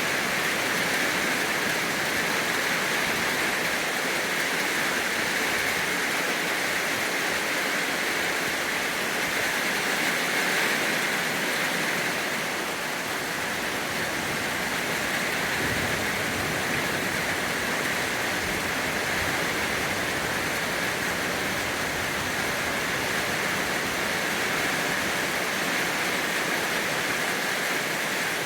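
Steady rain falling: an even, unbroken hiss with no separate drops standing out.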